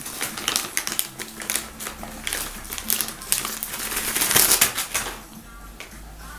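A dog chewing a Nature Stixx chew stick: irregular crunching and cracking, densest about four seconds in, stopping about five seconds in.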